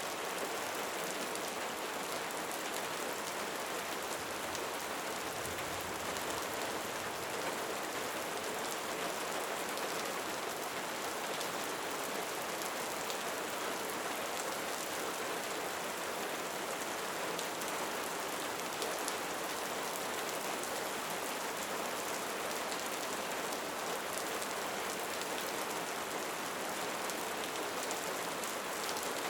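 Steady rain falling: an even, unbroken hiss of drops that holds the same level throughout.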